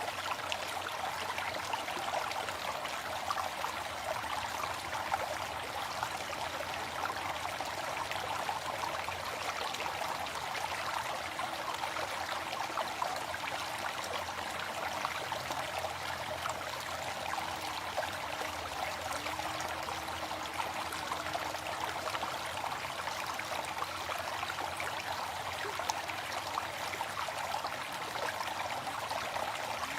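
Waterfall: falling water rushing steadily, an even hiss that never breaks or changes.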